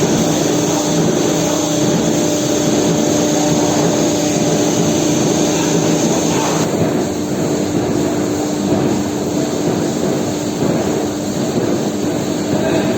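CNC nesting router running steadily, a constant hum under a dense rushing noise. The high hiss drops away about halfway through.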